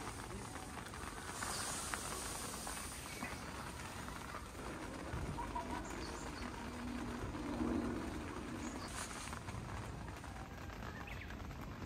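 Steady patter of rain in the open, with a faint bird chirp now and then. A low drone swells briefly about two-thirds of the way through.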